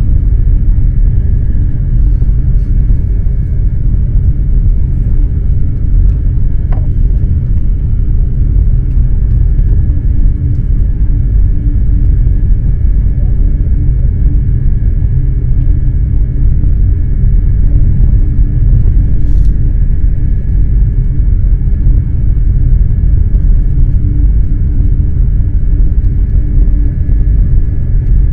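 Eurostar high-speed electric train running at speed: a steady, loud low rumble with a faint, steady high whine over it.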